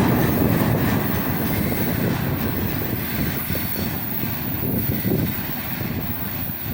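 Freight train wagons rolling past on the rails, a steady wheel rumble that slowly fades.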